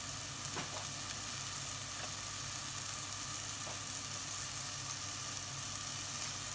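Chicken pieces frying in hot oil in a pan: a steady sizzle, with a few faint clicks.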